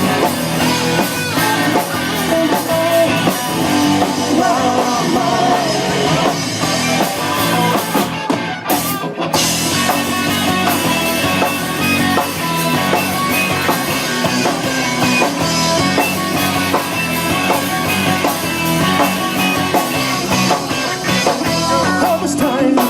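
Live rock band playing a song's instrumental stretch between sung lines, with guitar and a drum kit.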